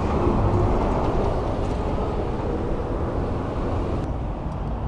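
Steady low rushing noise of riding an e-bike along a street: wind on the microphone mixed with road noise.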